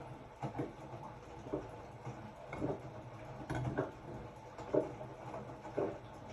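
Hotpoint-Ariston RSG 825 J washing machine in its wash phase: the drum turning over a low, steady motor hum, with the laundry sloshing and flopping about once a second.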